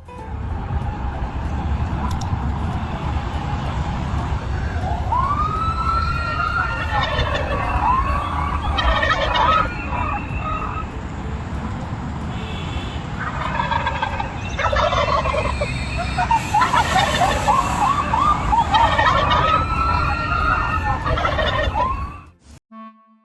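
Turkeys gobbling in repeated rapid warbling bursts, several times across the stretch, over a steady low rumble. A few short rising whoops cut in among the gobbles.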